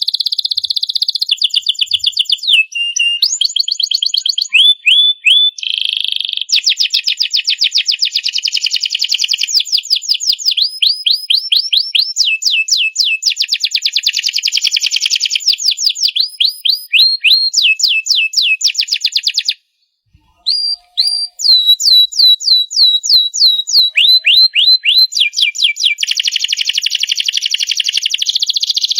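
Domestic canary singing a long continuous song made of phrases of fast repeated identical notes, trills and rolls, with a brief break about twenty seconds in.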